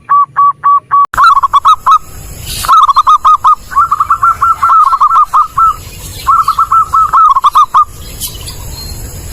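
Zebra dove (perkutut) cooing loudly in quick runs of short, evenly pitched notes. In the first second the notes come about four a second; after that the phrases come faster and less even, with breaks after about two and six seconds, and stop near eight seconds, leaving only a few faint high chirps at the end.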